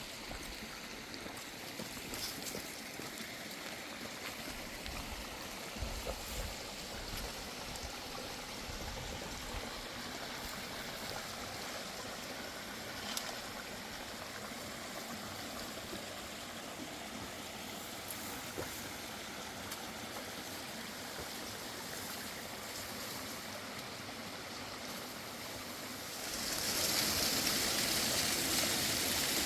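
Mountain stream flowing steadily, a continuous rush of water that grows louder and brighter near the end.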